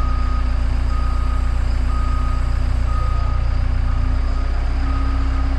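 A high warning beeper sounding about once a second, each beep short, over a steady low hum of running machinery.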